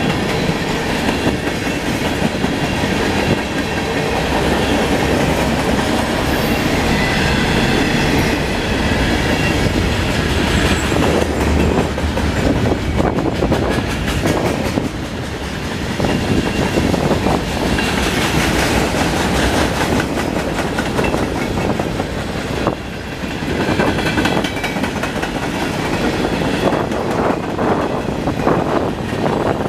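Freight cars of a long train (covered hoppers and center beam flat cars) rolling past: a steady rumble and clatter of steel wheels on the rails. The level dips briefly twice, and sharper knocks come near the end.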